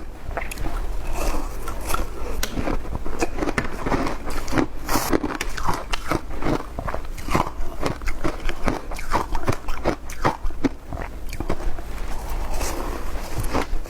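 A person biting and chewing ice close to the microphone: rapid, irregular crisp crunches, several a second.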